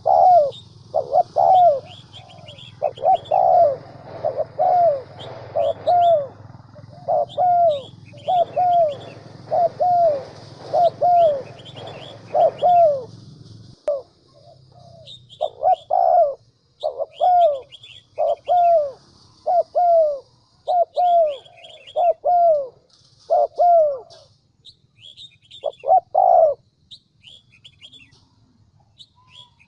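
Spotted dove cooing in a rapid run of short coo notes, a bit more than one a second, with a pause near the end. It is a decoy dove's provoking call of the kind used to lure wild males to a trap. Small birds chirp high above it, and a low hum stops about halfway.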